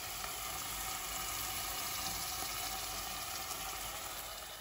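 Onions and hot peppers frying in oil in a pan on the stove, with a steady, even sizzle.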